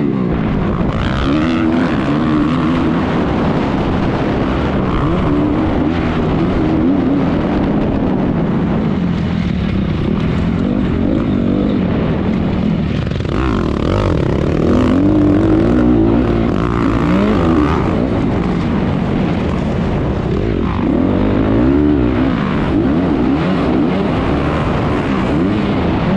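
Honda 250R motocross bike's single-cylinder engine racing, its pitch climbing and dropping again and again as the throttle is opened and shut through the gears.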